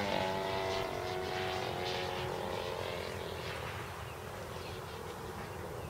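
50cc petrol engine of a radio-control Edge 540 aerobatic plane in flight, its propeller drone fading as the plane moves away.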